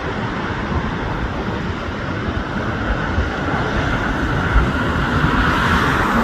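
Jet noise from a Singapore Airlines Airbus A350-941's twin Rolls-Royce Trent XWB engines on its landing at LAX, a steady rush that grows louder toward the end, over the hum of road traffic.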